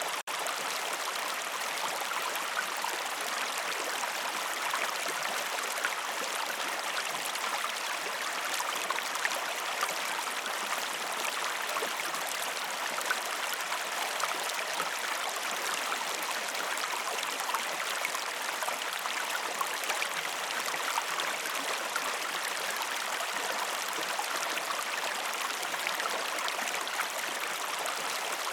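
Steady flowing water like a small stream or river, an even rushing with small trickles and drips throughout.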